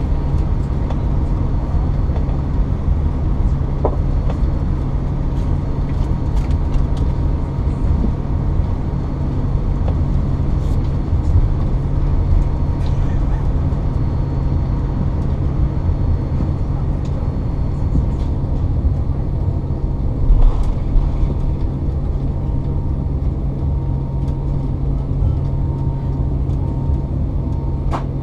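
Steady low rumble inside the cabin of a Boeing 787-9 Dreamliner during landing, with a few faint clicks and a brief rise in level about twenty seconds in.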